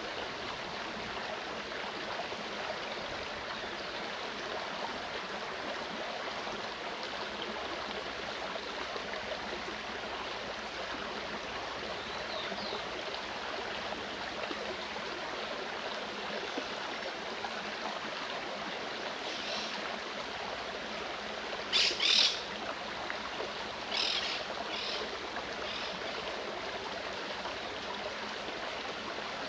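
Clear mountain stream flowing steadily. A bird calls briefly over it: a loud pair of calls about two-thirds of the way in, then a few shorter ones just after.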